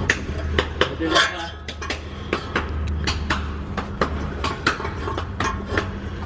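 Hand tools clinking and knocking on exhaust bolts and fittings: irregular sharp metallic clicks, several a second, over a steady low hum.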